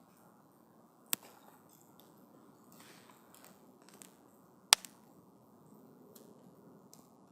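Wood fire burning with a low steady hiss, and burning wood crackling: a sharp pop about a second in, the loudest pop a little before five seconds in with a smaller one just after it, and a few faint ticks between.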